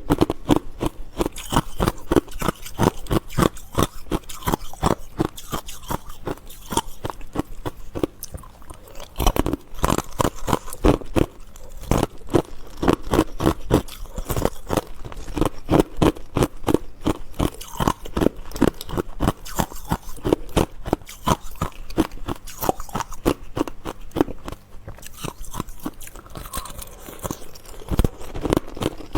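Close-miked crunching of ice being bitten and chewed, with rapid, crisp cracks following one another without a break.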